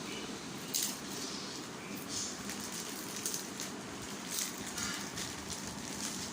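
Parrot crunching a snack: a few short, crisp crackles spaced a second or so apart over a steady background hiss.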